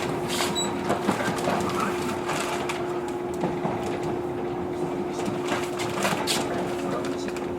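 Inside a JR 115-series electric train standing at a station, with no running noise. Its onboard equipment makes a steady hum, with scattered clicks and knocks in the cabin.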